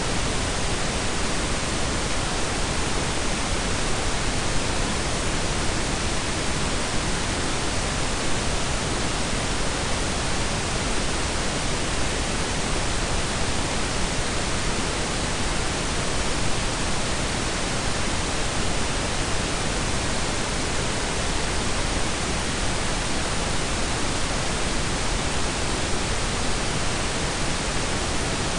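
Steady blend of pink and brown noise: an even, unchanging hiss with a deep rumble beneath it, cut off above the treble.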